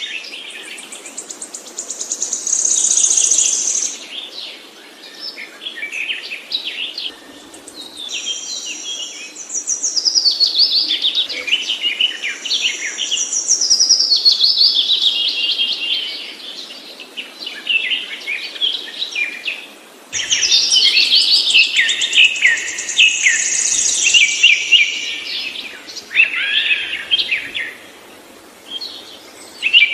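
A songbird singing continuously in long, varied phrases of fast high trills, chirps and sweeping notes.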